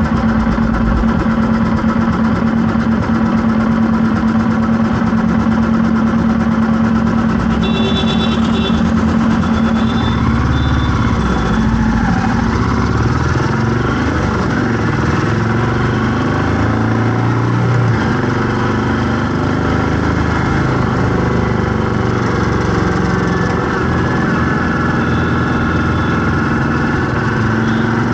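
Vehicle engine running in traffic: a steady idle-like hum for about the first ten seconds, then pitch rising and falling as it moves off and changes speed. A brief high tone comes about eight seconds in.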